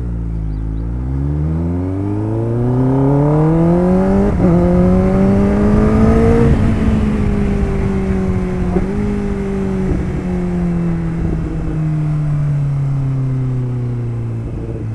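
Kawasaki Ninja ZX-10R inline-four engine pulling under acceleration: the revs climb for about six seconds, with a brief break around four seconds in, then the engine note eases slowly downward as the throttle is held back.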